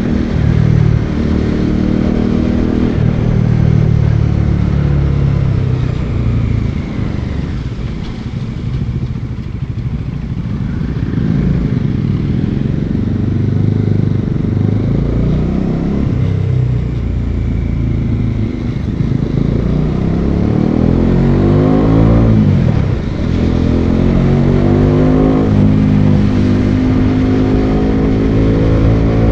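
Bajaj Dominar 400's single-cylinder engine and exhaust on the move. It runs lower and steadier through the middle, then climbs in pitch and drops back sharply several times as it accelerates through the gears.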